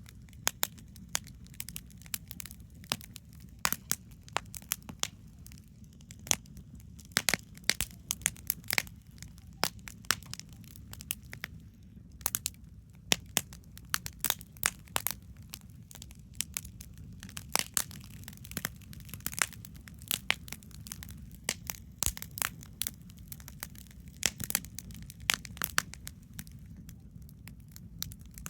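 Wood campfire crackling, with irregular sharp pops and cracks over a steady low rumble.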